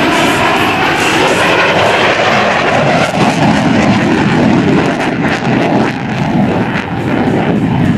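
Loud jet noise from a Grumman F-14 Tomcat's twin engines as it flies an aerobatic manoeuvre, a dense, steady rushing sound that eases a little over the second half.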